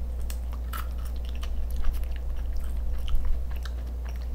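Close-up chewing of a bite of a crispy fried chicken burger: scattered small wet mouth clicks and crackles, over a steady low hum.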